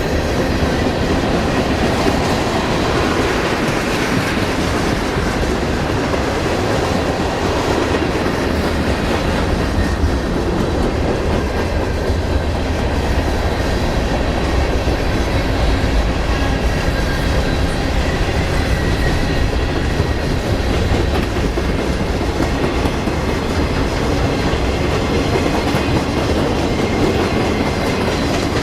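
A train's cars rolling past close by: a steady rumble with the clickety-clack of wheels over the rail joints.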